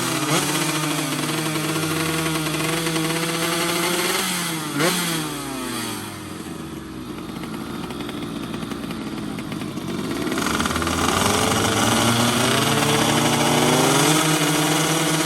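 Several two-stroke underbone racing motorcycles revving, their pitch sweeping up and down. The engine sound dips about halfway through and builds again about two-thirds of the way in.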